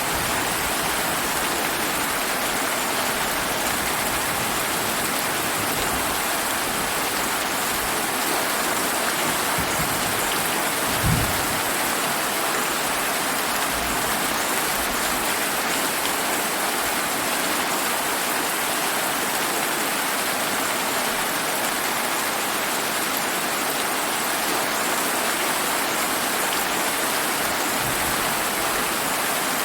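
Steady summer rain falling, an even hiss of rain on surfaces, with one brief low thud about a third of the way in.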